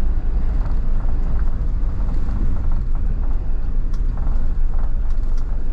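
Car driving on a snowy road, a steady low rumble of engine and tyres heard from inside the cabin.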